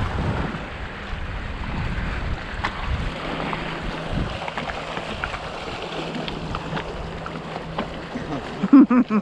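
Wind buffeting the microphone and water rushing along a Hobie 16 catamaran under sail as a gust fills in. The wind rumble is heaviest in the first few seconds and then eases, with a faint steady hum in the middle stretch.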